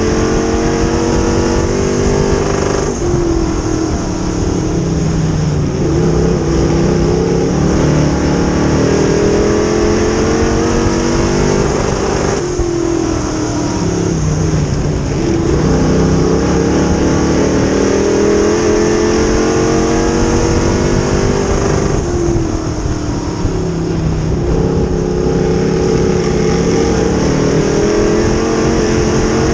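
Dirt modified race car engine running hard on a track. Its pitch climbs steadily, then falls off sharply as the throttle lifts, in a cycle that repeats about every nine to ten seconds.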